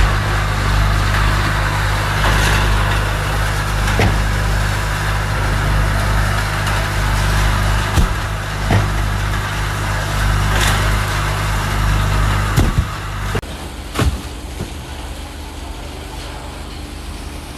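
A large engine running steadily, with sharp knocks and clanks every second or two. About 13 seconds in, the engine sound drops away abruptly, leaving a quieter hum and a couple more knocks.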